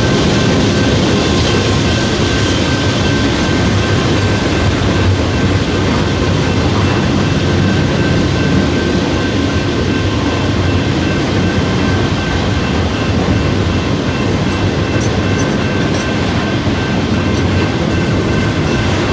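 Train rolling past at close range: a steady loud rumble of wheels on rail, with a faint, steady high ring over it.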